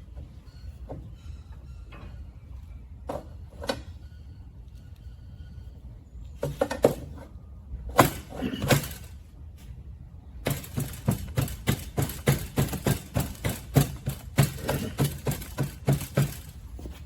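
Hand-tool work on a part at a workbench: scattered knocks and clicks, a few louder hits, then about ten seconds in a fast, even run of short strokes, several a second.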